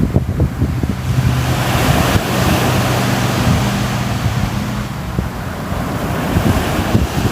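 Ocean surf: a wave swells and washes in over a few seconds, then eases off, with wind buffeting the microphone. A faint low hum sits underneath for a few seconds.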